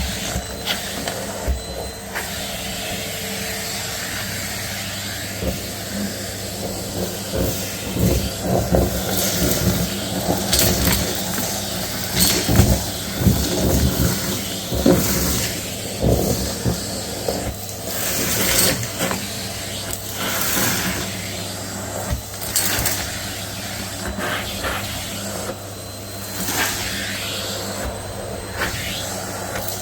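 Numatic Hetty cylinder vacuum running, its motor humming steadily under the rush of suction while it picks up dirt and lint, with frequent crackles and rattles of debris going up the hose, busiest in the middle.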